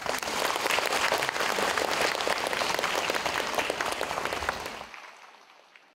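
Audience applauding: dense clapping from many hands, steady for about four seconds, then dying away near the end.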